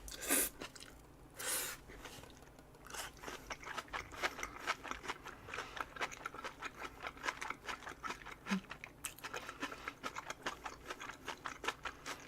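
Close-miked chewing of a leaf wrap of boiled pork, mushrooms, paprika and garlic: two louder crunches in the first two seconds, then a fast, steady run of wet, crunchy chewing.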